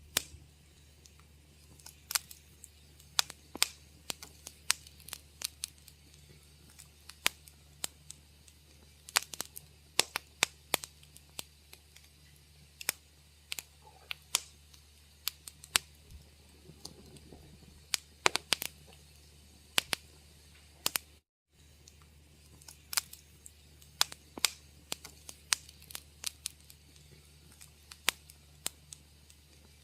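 Wood fire in a fireplace crackling: irregular sharp snaps and pops, sometimes several a second, over a low steady hum. The sound cuts out completely for a moment about twenty seconds in.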